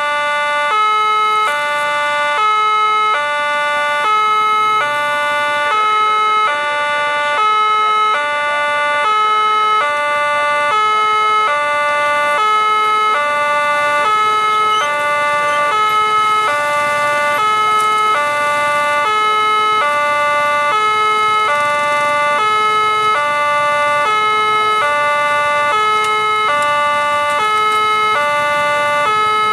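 Railway level-crossing warning alarm: an electronic signal alternating evenly between a lower and a higher note, about two notes a second, repeating steadily.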